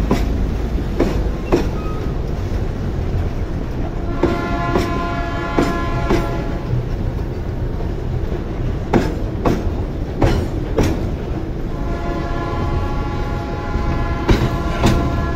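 Freight train of boxcars rolling past over a road level crossing: a steady low rumble with clacks, mostly in pairs, as each car's wheels cross the rail joints. A steady horn-like tone sounds twice, about four seconds in and again about twelve seconds in, each for a few seconds.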